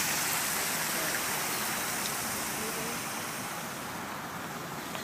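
Pumped water spilling over a water sculpture's fall, a steady rushing that slowly grows quieter.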